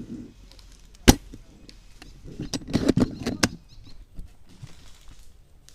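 Airsoft guns firing: one sharp shot about a second in, then a quick string of four or five shots about two and a half to three and a half seconds in.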